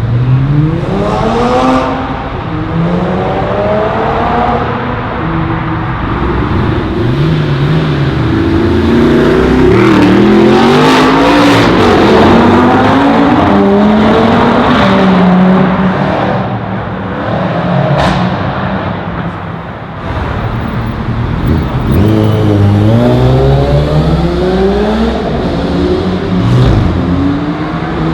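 Loud performance-car engines accelerating hard, revving up through the gears in repeated rising sweeps, with passes near the start, in the middle and near the end.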